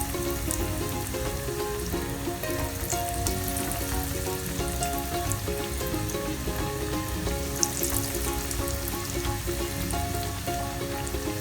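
Breaded chicken cutlets frying in hot oil, a steady sizzle with light crackling, over soft background music.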